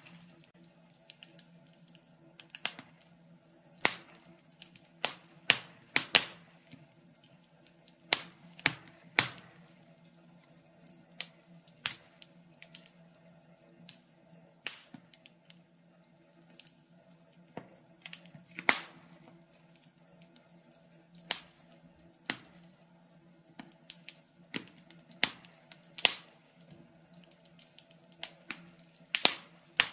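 Wood fire burning in a fireplace, crackling with irregular sharp pops and snaps at uneven intervals, over a faint steady low hum.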